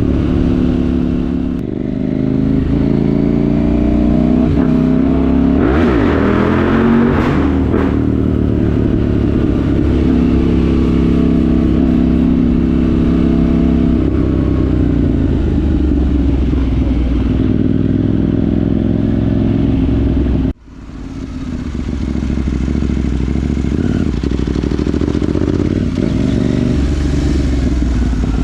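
KTM 790 Duke's parallel-twin engine through a Remus rear silencer with the catalytic converter removed, running under way with the engine pitch climbing and dropping as it accelerates and changes gear. The sound cuts out abruptly for a split second about twenty seconds in, then returns.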